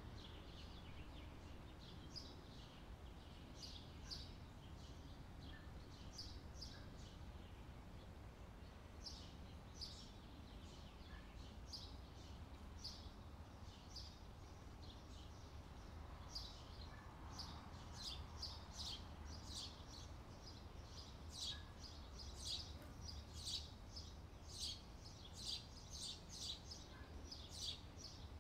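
Faint bird chirping: short high chirps repeating irregularly, coming thicker in the second half, over a low steady hum.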